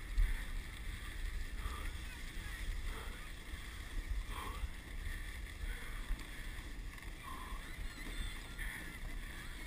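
Dog sled running over snow: a steady hiss from the runners and a low wind rumble on the microphone, with faint voices in the background.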